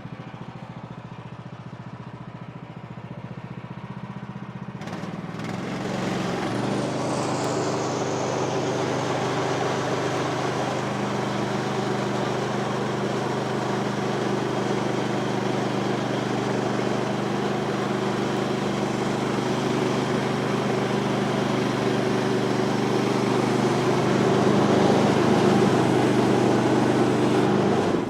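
Woodland Mills HM126 portable band sawmill with its gas engine running steadily, then from about five seconds in the band blade cutting through a red cedar log. The engine note changes under the load and the sawing noise grows louder until it falls away right at the end.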